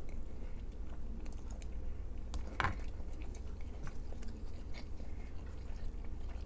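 A person chewing food close to the microphone, with small wet clicks and one louder crunchy bite about two and a half seconds in.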